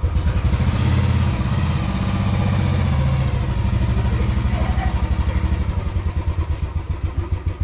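Motorcycle engine idling with an even firing rhythm; it is revved up a little about a second in, then settles back to idle.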